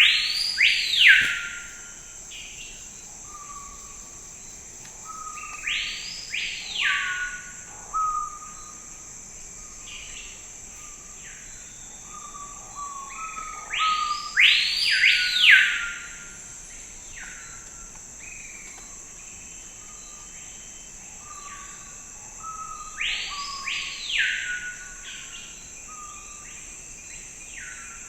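Forest ambience: a songbird repeats a short phrase of rising-and-falling notes about every eight seconds, over a steady high-pitched drone of insects.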